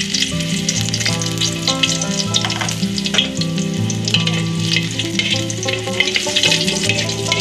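Chopped garlic sizzling steadily in hot oil in a pan, with fine crackling, stirred with a metal spatula. Background music with sustained notes plays underneath.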